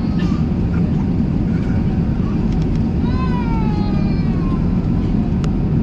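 Steady low rumble of an Airbus A380 passenger cabin. About three seconds in, a brief high-pitched cry falls in pitch over about a second and a half.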